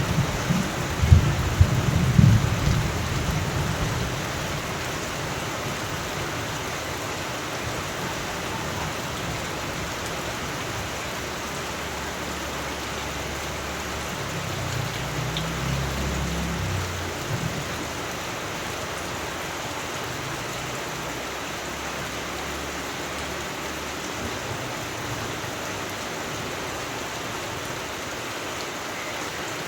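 Steady rain falling, with low rolls of thunder: one dying away in the first few seconds and another about halfway through.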